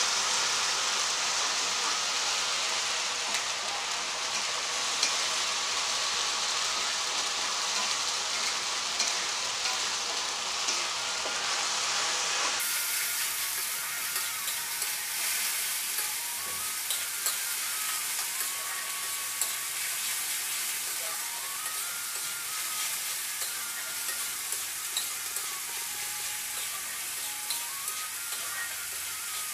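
Onion, ginger and garlic paste sizzling in hot mustard oil in a steel kadai, being fried down (kosha) while a spatula stirs and scrapes it, with small clicks of the spatula against the pan.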